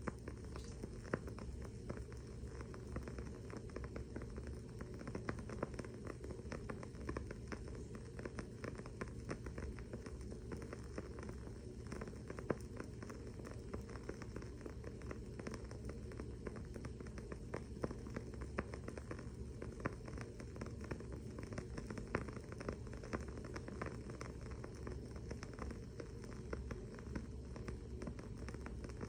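Wooden-wick candle burning with a dense, steady crackle of tiny pops, a few louder pops standing out now and then.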